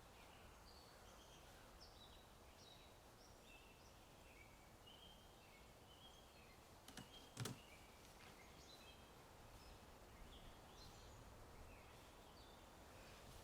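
Small birds chirping and singing over a faint hiss of outdoor ambience, many short repeated notes, with a couple of sharp clicks about halfway through.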